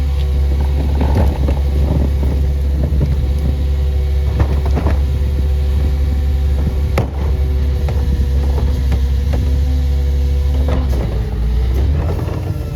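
CNG Peterbilt garbage truck with a Leach body running with a steady low engine hum, with repeated clanks and knocks over it and one sharp bang about seven seconds in. The engine's pitch drops near the end.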